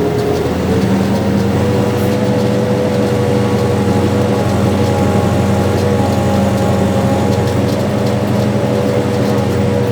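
Farm tractor's diesel engine running while pulling a soybean planter, its pitch stepping up slightly about half a second in and then holding steady.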